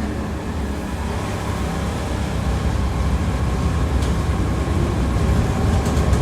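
Tram running, heard from inside the car: a low rumble of wheels on the rails that slowly grows louder, with a thin steady whine joining about halfway through.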